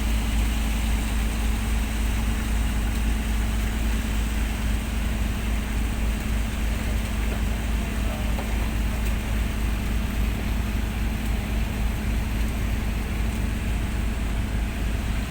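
An engine running steadily aboard a squid fishing boat, a deep rumble with a constant hum.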